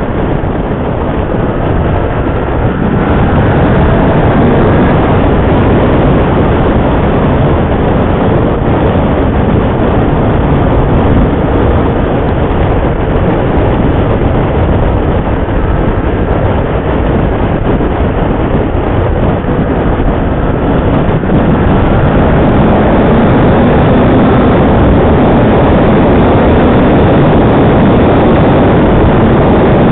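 Motorcycle being ridden at speed: loud, steady wind rush on the microphone with the engine running underneath, its pitch shifting now and then with the throttle.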